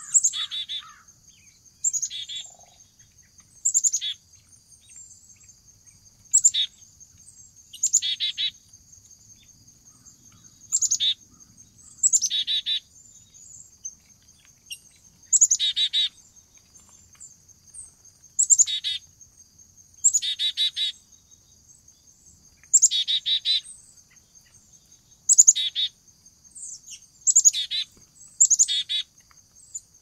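A songbird calling over and over, one short call about every two seconds, each starting on a high note and dropping into a lower rapid trill. Behind it runs a steady high-pitched insect trill.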